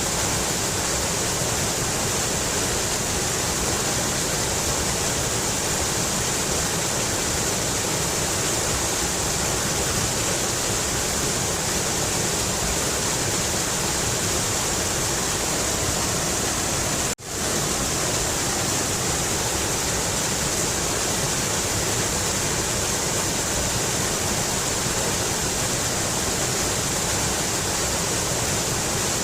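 Mountain river rushing in a steady, unbroken hiss of water, interrupted once by a split-second gap about two-thirds of the way through.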